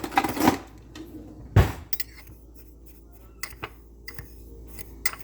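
Cinnamon and sugar being stirred in a bowl: a spoon scraping and clinking against the bowl in short, uneven strokes, with one loud knock about a second and a half in.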